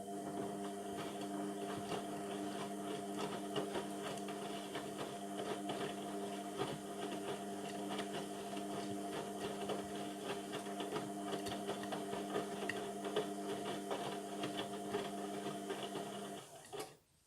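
Indesit MTWC71252WUK washing machine running mid-cycle: a steady motor hum with a light clatter, which stops abruptly about a second before the end.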